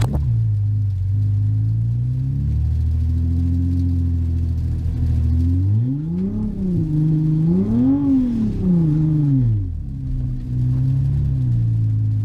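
Engine of an Audi S5 fitted with a Precision 6466 turbo, heard from inside the cabin. It runs steadily, revs up and back down twice, about six and eight seconds in, then settles again.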